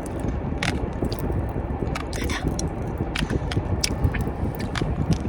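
Popping candy crackling in the mouth while it is eaten: irregular sharp little pops and clicks, over a steady low rumble.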